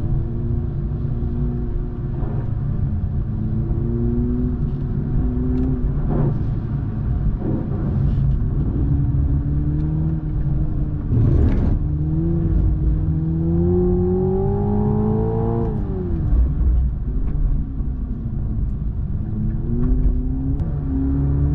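Toyota GR Supra 2.0's turbocharged four-cylinder engine pulling hard in gear: its pitch climbs and drops back several times, with a longer climb about two-thirds of the way in that falls away, then rises again near the end. A steady low rumble of tyres on a wet surface runs underneath.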